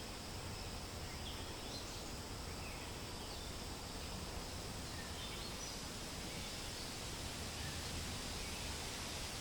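Steady wind rustling through tree leaves, with faint, scattered short bird chirps over it.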